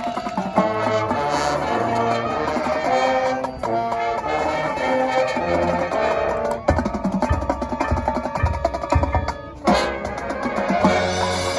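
High school marching band playing: held brass chords over low brass notes, with a run of quick drum strokes in the middle and a short break before a loud full chord near the end.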